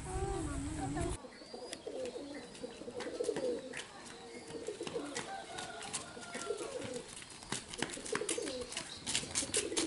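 Birds giving low, repeated cooing calls, with scattered sharp clicks in between.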